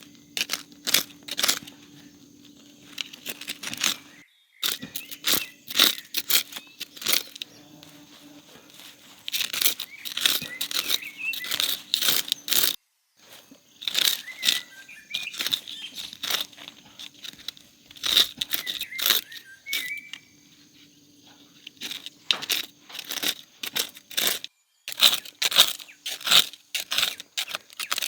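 Rustling, tearing and crunching of dry plant material in quick, irregular bursts. The sound breaks off sharply a few times.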